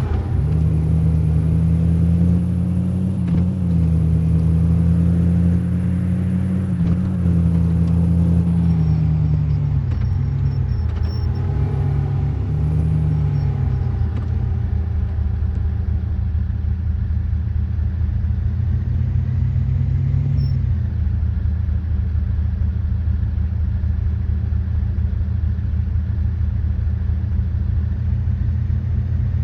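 A car being driven: a steady low engine and road rumble whose pitch rises and falls a few times in the first half, then holds steady.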